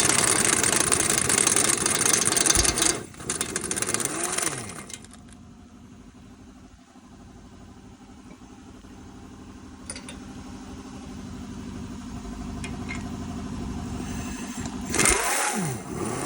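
Impact gun running out the Jeep Compass's strut-to-steering-knuckle bolts: loud spells of the tool spinning up and winding down in the first few seconds and again near the end, with a quieter steady hum between.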